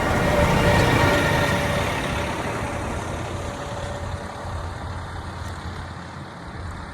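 A train rumbling past on the rails, loudest about a second in and then fading steadily as it moves away.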